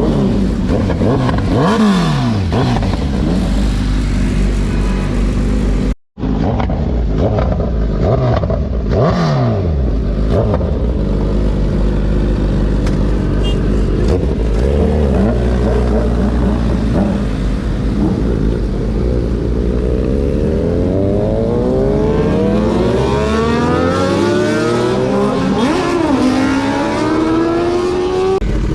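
Motor vehicle engines on a road. An engine's pitch drops away twice early on, and from about two-thirds of the way through one engine accelerates with its pitch climbing steadily, dips briefly as if shifting gear, then climbs again.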